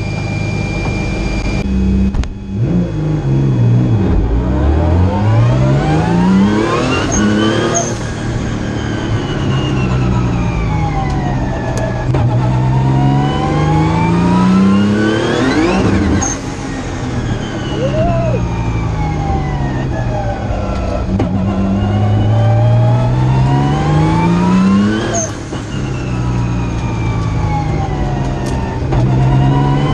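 Engine of a roughly 1000-horsepower Nissan March race car, heard from inside the cabin. About two seconds in it pulls away, then revs climb hard and fall away three times as the car accelerates and slows along the course.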